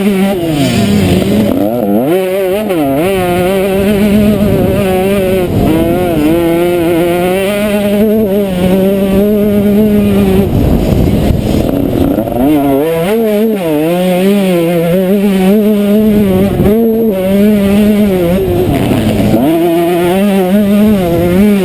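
Motocross bike engine under hard throttle, its pitch climbing and holding, then dropping away as the throttle is shut, several times over: briefly about a second in, around the middle, and near the end.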